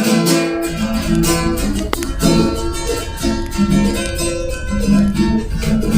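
Acoustic guitar being strummed, playing a chordal passage with a steady rhythm.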